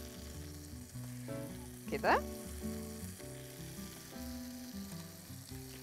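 Lentil-and-potato kofta patties frying in hot vegetable ghee in a pan, with a steady sizzle.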